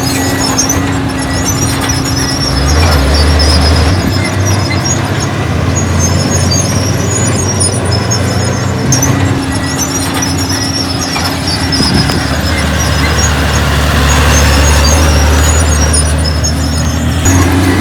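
Heavy earthmoving machinery running: a diesel engine drones and swells louder twice, under a steady string of short, high-pitched squeaks.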